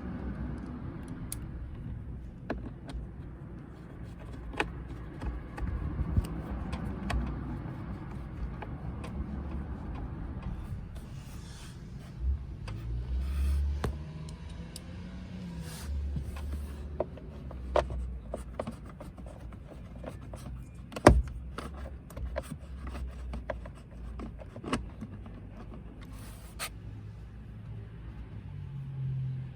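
Hands working on a car's interior: scattered clicks, knocks and scrapes of tools and plastic parts over a low rumble, with a few short rustles and one sharp knock about two-thirds of the way through.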